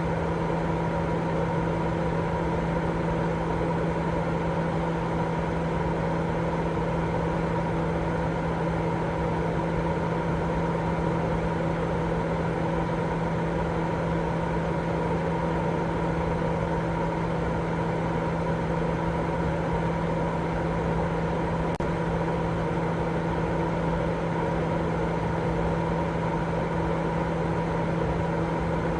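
Continuous sleep-aid noise: a steady rushing noise with a constant low hum and fainter higher tones, like a machine running, unchanging throughout.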